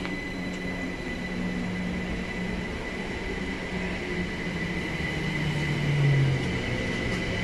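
Electric multiple-unit passenger train running on the tracks beyond the platform fence: a steady low hum with a thin, steady high-pitched tone over it. A lower note swells briefly about six seconds in.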